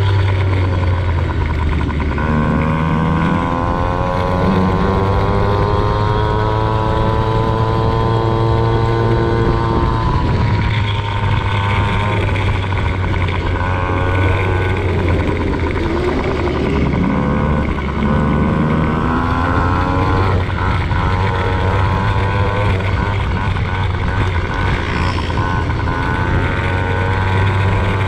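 Motocross bike engine running hard, its pitch climbing and dropping again and again with throttle and gear changes, over a steady low drone.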